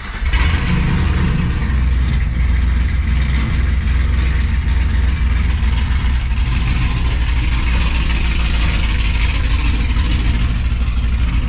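Truck engine running loud and steady, with most of its sound deep down; it comes in abruptly just before. The owner says the truck is running badly and needs a tune.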